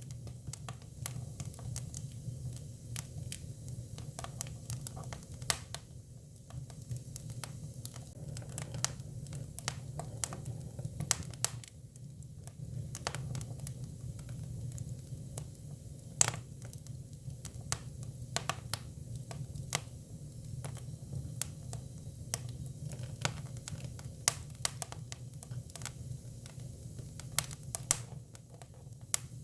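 Hinoki cypress firewood burning: frequent irregular sharp crackles and pops, a few louder than the rest, over a steady low rumble of the fire.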